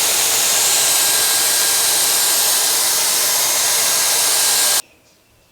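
Dyson Airwrap hair styler running: a loud, steady rush of blown air with a faint high whine. It switches off suddenly near the end.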